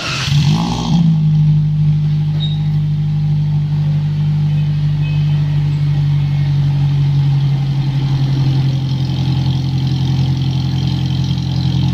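Toyota Agya 1200cc engine heard through a 4-1 header and Alpino resonator and muffler exhaust. It rises and falls briefly in the first second, then settles into a steady idle.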